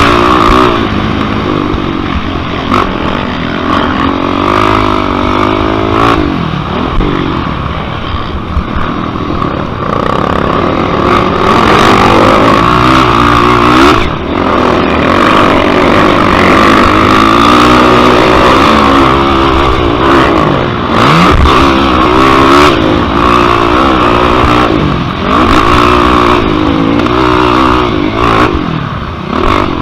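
A Yamaha YFZ sport quad's single-cylinder four-stroke engine racing hard. It revs up and eases off again and again as the throttle is worked through the course.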